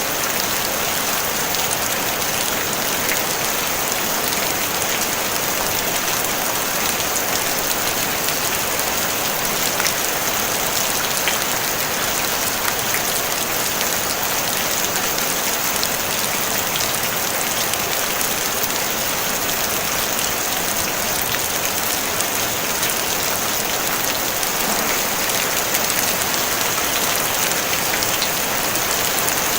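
Steady gentle rain drumming on a tin roof: a dense even hiss full of tiny drop ticks, with no thunder.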